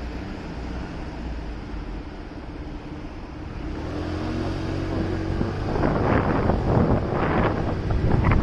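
Motorcycle on the move in city traffic: engine running under road noise, growing louder and rougher from about halfway through as wind buffets the microphone.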